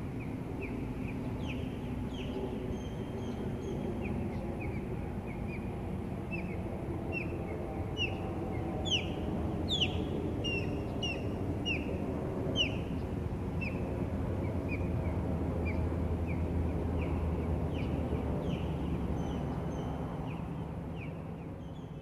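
A bird calling a long series of short whistled chirps, each falling in pitch, about two a second and most frequent around the middle. A steady low rumble runs underneath.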